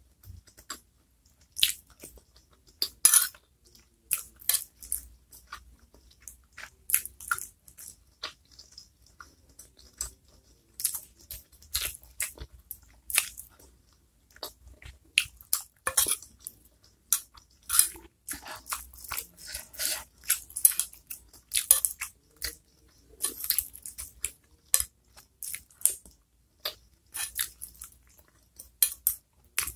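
Close-miked mouth sounds of a person eating chicken meatballs and chicken feet in spicy chili sauce: irregular wet chewing smacks and crunches, some sharp and loud.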